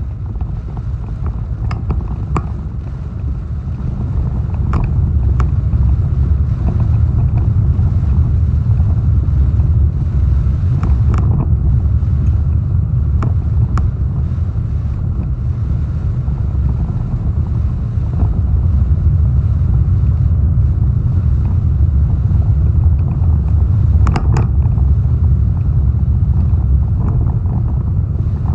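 Strong hurricane wind buffeting the microphone, a heavy steady low rumble that swells a few seconds in, with scattered sharp ticks.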